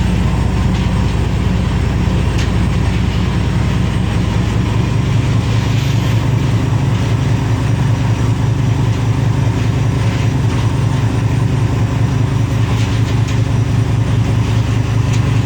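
Fishing boat's engine running steadily at normal cruising speed, a constant low drone.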